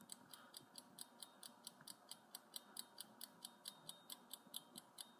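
Faint clock-tick sound effect for a countdown timer: short, even ticks at about four to five a second.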